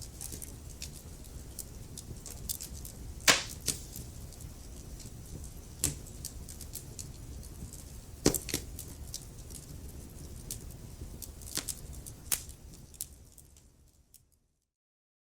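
Wood fire crackling: irregular sharp pops and snaps over a steady low rumble of burning logs, with two louder pops about three and eight seconds in. The sound fades out to silence near the end.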